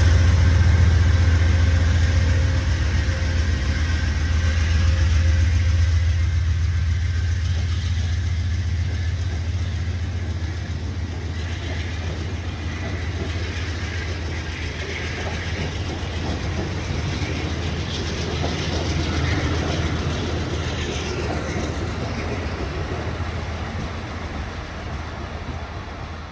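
Amtrak train of stainless-steel Amfleet coaches pulling out of the station and rolling past on the rails, a steady rumble and wheel noise with a deep hum that is strongest in the first few seconds. The sound slowly fades as the train draws away.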